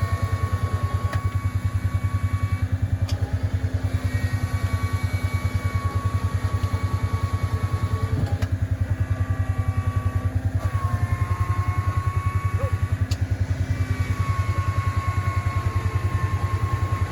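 Vehicle engine running steadily at low revs with a rapid, even thumping, and a steady high whine over it that cuts out briefly a few times.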